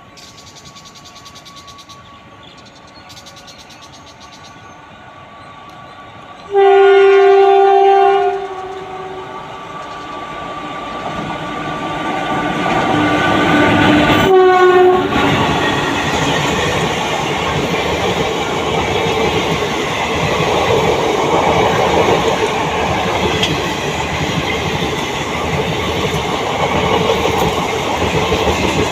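WAP-4 electric locomotive's horn sounding one long blast about a third of the way in and a short second blast about halfway, while the rumble of the express train builds. After the second blast the coaches pass at speed with a steady rumble and wheels clattering over rail joints.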